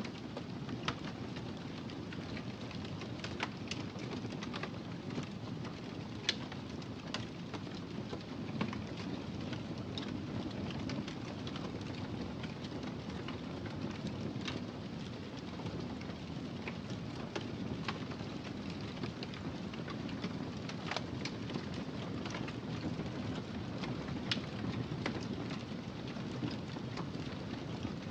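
Wood fire burning in a fireplace: a steady low rumble of flames with irregular sharp crackles and pops every second or so.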